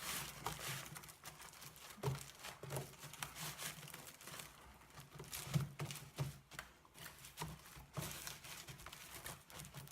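Hands moulding freshly cooked sticky rice on a mat: faint, irregular soft handling noises and small clicks.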